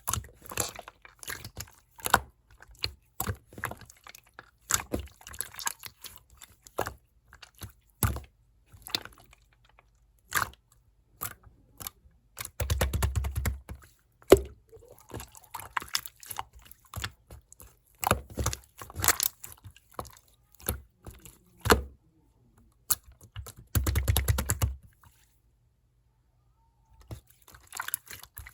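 Clear slime being squeezed, pressed and stretched by hand, making sharp wet clicks and pops. There are two runs of rapid crackling from air bubbles, one about halfway through and one near the end.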